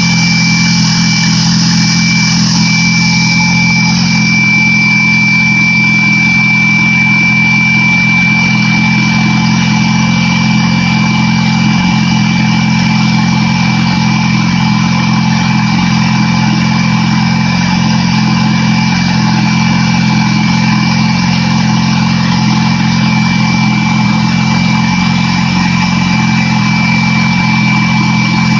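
A 2008 Yamaha YZF-R6's inline-four motorcycle engine idling steadily, with a thin high whine held steady over it.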